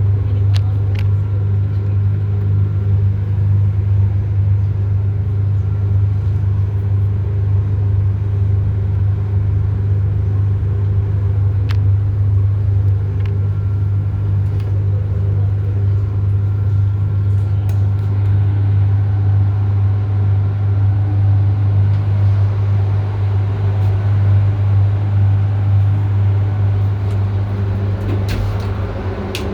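Steady low mechanical drone with a strong hum, and a few faint clicks on top.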